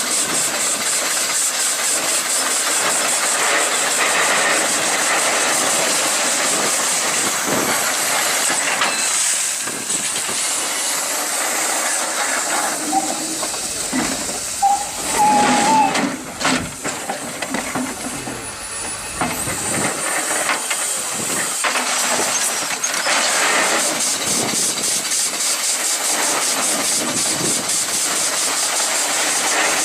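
Steam excavator at work, giving off a steady hiss of steam. About halfway through comes a louder, busier stretch of knocks and a brief squeal.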